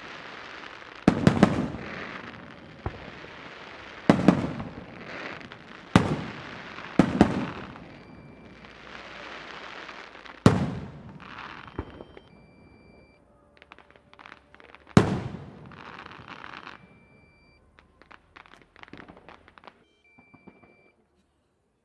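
Aerial fireworks shells bursting, with sharp loud bangs every couple of seconds, each followed by hissing crackle. After about 13 seconds the bangs give way to scattered crackling, with one last big bang around 15 seconds, and the sound dies away near the end.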